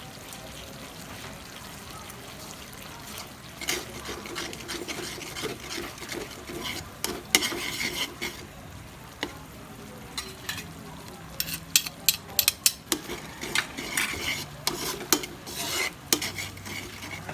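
Chicken being stirred in a frying pan: a utensil scraping and knocking against the pan over frying noise, with quick runs of sharp clinks in the second half.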